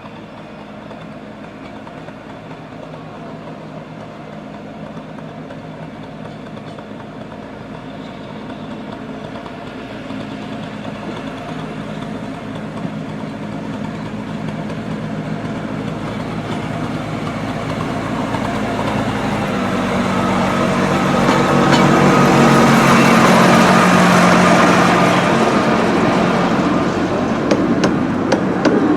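A Romney, Hythe and Dymchurch Railway 15-inch-gauge train approaching, its steady running hum growing steadily louder until about three-quarters of the way through, then easing a little. Sharp clicks from the wheels on the track come near the end.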